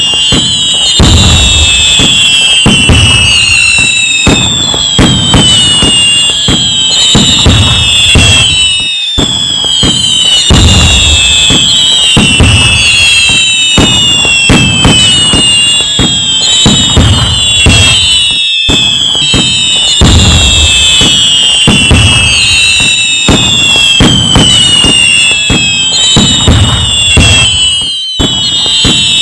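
A dense fireworks barrage: continuous low booms and crackling explosions, overlaid with high whistles that fall in pitch and recur about every two seconds. The sound cuts out for a split second roughly every nine and a half seconds, as the recording loops.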